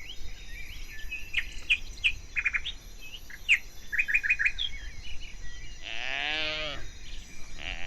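Natural ambience of birds chirping in short repeated notes over a steady high insect drone. About six seconds in, a single wavering animal call lasts about a second.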